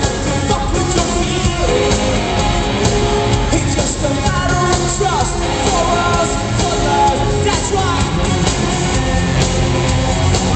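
Rock band playing live in an arena, with a woman singing over drums, bass and guitars, recorded from the crowd so the sound is loud and echoing from the hall.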